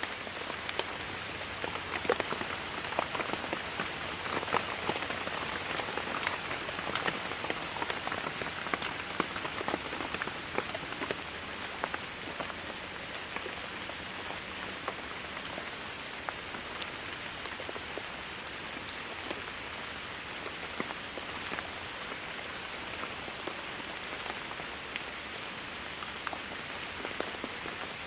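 Steady rainfall with individual drops pattering on a surface, heavier with more distinct drop hits in the first dozen seconds, then easing to an even patter.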